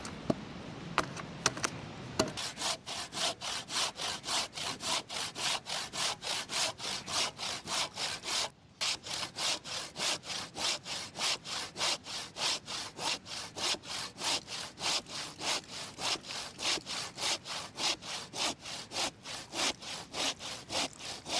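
A hand saw cutting firewood with quick, even back-and-forth strokes, about three a second, with a short pause near the middle. A few sharp clicks come just before the sawing starts.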